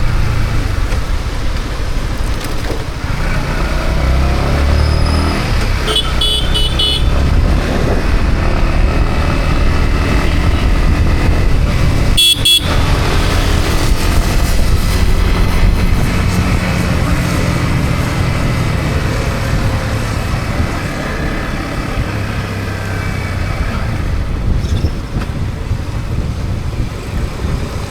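Yamaha MT-15's single-cylinder engine running steadily under way, with road and traffic noise around it. Short horn beeps sound about six seconds in and again, more sharply, about twelve seconds in.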